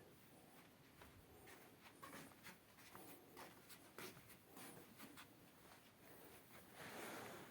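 Faint, soft scratching with small irregular clicks, as a cat nibbles and licks at its claws.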